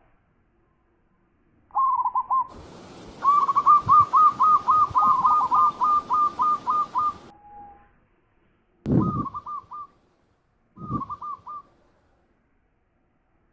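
Zebra dove (perkutut) cooing: a short phrase, then a long run of about a dozen quick, evenly spaced coo notes lasting some four seconds, then two more short phrases near the end.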